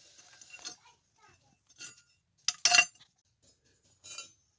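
Metal parts clinking and knocking as they are handled on a workbench: a few short, separate clinks, the loudest a quick cluster about two and a half seconds in.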